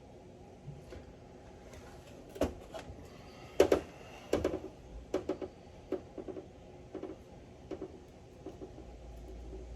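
Irregular clinks and knocks of metal parts and tools being handled during work on a truck's steering box, loudest about a third of the way in.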